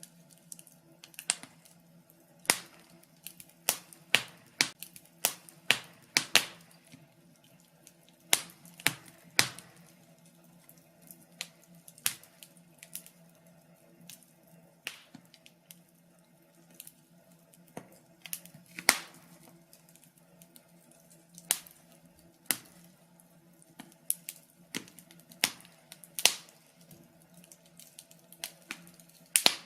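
Wood fire crackling in a fireplace: irregular sharp pops and snaps, often a few in quick succession, over a faint steady hum.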